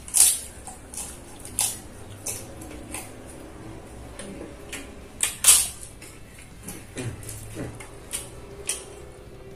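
Close-miked eating: a man chewing a handful of rice and fried egg with crackers, with sharp crunches and wet mouth clicks every second or so, the loudest near the start and about five and a half seconds in.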